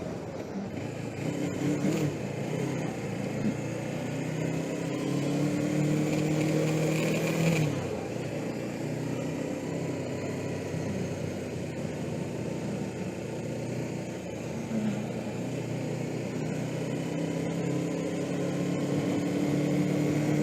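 Suzuki GS500E's air-cooled parallel-twin engine under way, its pitch rising with the revs, then dropping suddenly about seven and a half seconds in, and rising again near the end. Wind rush on the helmet microphone runs underneath.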